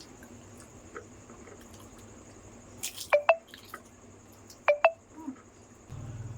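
Close-up eating sounds from a mouthful of yogurt-filled fuchka: wet mouth clicks and smacks in two quick pairs, after a short crackle about three seconds in.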